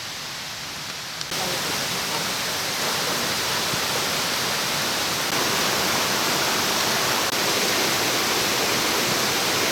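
Rushing water of a mountain stream, a steady hiss that gets suddenly louder about a second in, then holds.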